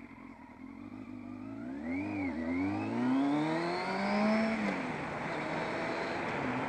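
Yamaha FZS600 Fazer's inline-four engine accelerating away through the gears: the revs climb, dip at a gear change about two seconds in, climb again, then drop to a steady cruise about five seconds in. Wind rushes over the helmet microphone as speed builds.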